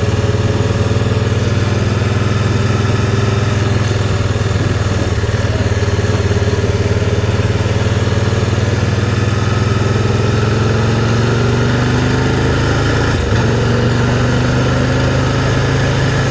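Can-Am Spyder three-wheeled motorcycle engine running steadily while cruising. Its pitch eases down slowly, then rises gently again near the end.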